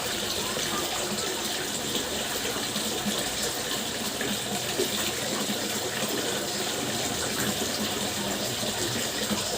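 Water fountain splashing and gushing steadily.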